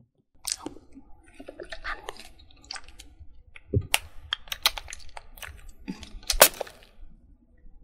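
Close-miked irregular crisp clicks and crackles, with a few louder snaps about four to six seconds in.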